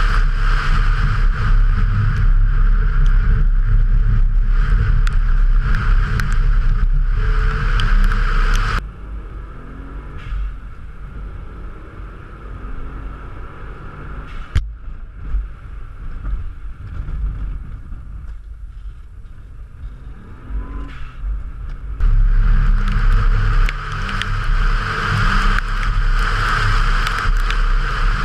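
Subaru Impreza's turbocharged flat-four engine running hard at rally speed, with wind and wet-road tyre noise, heard from outside the car. From about 9 s to 22 s it is heard from inside the cabin instead, much quieter and muffled, before it is loud again.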